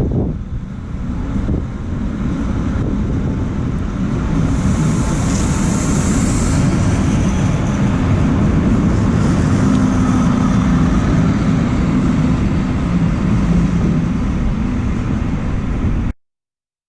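A train running with a loud, steady low rumble that builds over the first few seconds, with a burst of hiss about five seconds in; the sound cuts off suddenly near the end.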